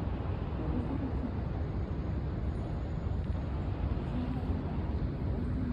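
Steady low rumble of a Shinkansen high-speed train running, with faint murmuring voices under it.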